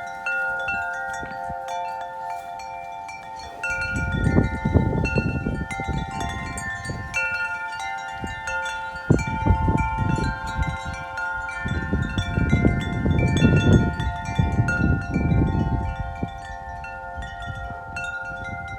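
Wind chimes ringing continuously, many overlapping notes struck again and again in strong gusty wind. Twice, about four seconds in and again about twelve seconds in, gusts rumble on the microphone for several seconds.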